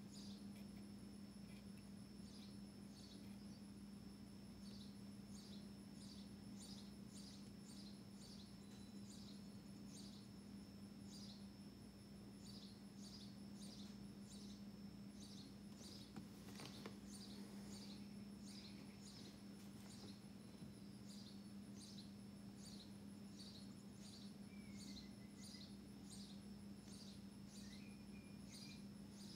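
Near silence: a steady low hum under faint, high chirps that repeat about twice a second.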